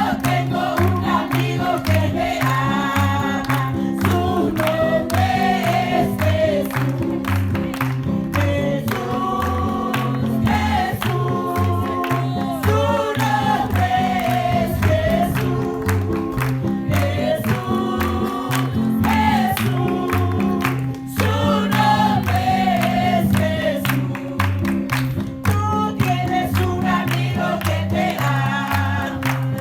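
A group singing Christian revival choruses together, backed by a steady bass line and percussion. The music runs on continuously, with a brief dip about 21 seconds in.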